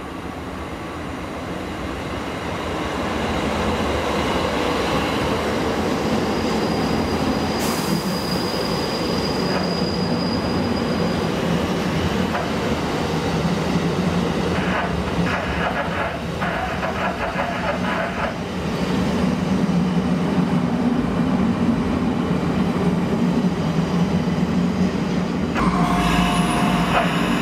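Abukuma Railway 8100 series electric train pulling into a platform, its running noise growing louder over the first few seconds as it nears. Wheels and brakes squeal as it slows past and draws to a stop, with a thin high squeal about eight seconds in.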